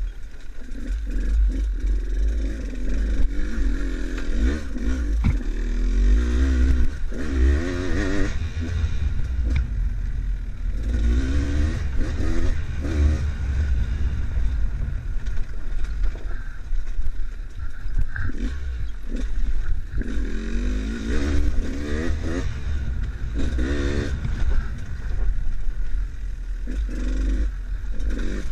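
Enduro dirt bike's engine being ridden off-road, its pitch rising and falling again and again as the throttle is opened and closed, over a heavy low rumble.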